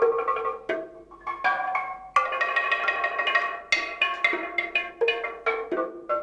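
Music of struck tuned percussion: a quick, uneven run of short ringing notes at varied pitches, each struck sharply and dying away, with a louder cluster of notes about two seconds in.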